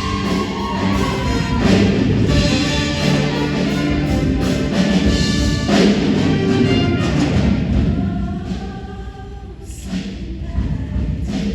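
Show choir singing over loud instrumental accompaniment with heavy drum hits; the music drops quieter about eight seconds in.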